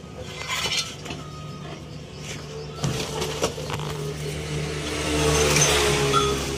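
A motor vehicle's engine running nearby, growing louder about five seconds in and then easing off, with a few sharp metal clinks of tools.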